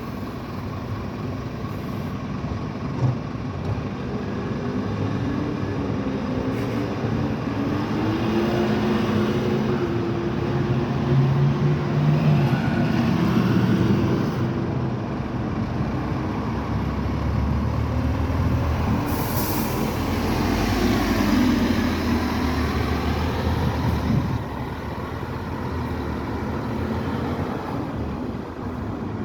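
Scania N270UD OmniCity double-decker bus's diesel engine pulling away, its note climbing and changing as it accelerates through the gears. A short hiss of air comes about two-thirds of the way through, and the engine sound drops off suddenly a few seconds later.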